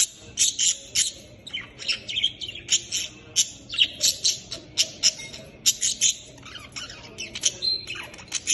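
Budgerigars chattering: a dense, irregular run of short, high chirps and clicks, several a second.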